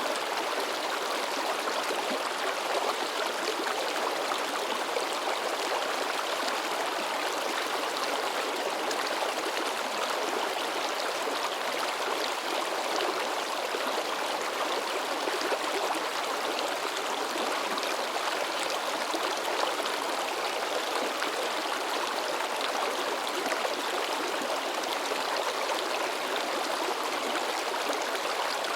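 Mountain river babbling and splashing over rocks, a steady, unbroken rush of flowing water.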